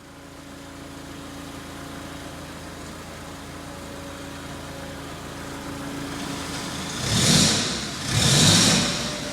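A 2003 Yale forklift's four-cylinder LP-gas propane engine running steadily. Two louder surges come near the end, about a second apart.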